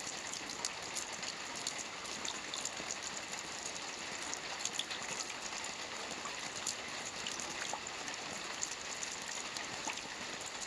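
Steady rain falling on a lake's surface: a constant hiss of water with many individual drop patters.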